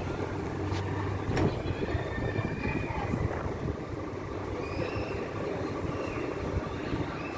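Scania K440 coach's 13-litre straight-six diesel engine running, a steady low rumble and hum.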